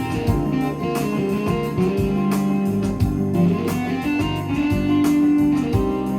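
Korg Pa1000 arranger keyboard playing one of its factory styles: a guitar sound carries the melody over an automatic drum and bass accompaniment with a steady beat.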